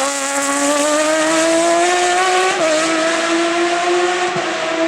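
Hill-climb race car engine at full throttle, its pitch climbing as it accelerates, with a quick upshift about halfway through before the pitch climbs again.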